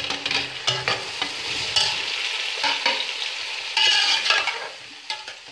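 Sliced tomatoes sizzling as they go into hot oil and softened onions in an aluminium pot, with a spatula scraping them off a plate and stirring them against the pot, louder scrapes about two and four seconds in.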